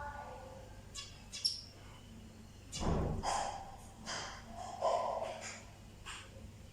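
Birds chirping: short, high calls at irregular intervals, with a louder, lower call or knock about three seconds in.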